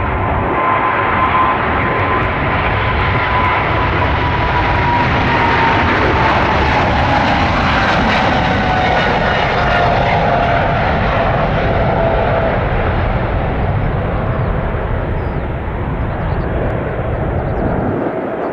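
Jet airliner's engines at takeoff power as it departs and passes, a loud steady rumble with a whine that slowly falls in pitch, loudest around the middle.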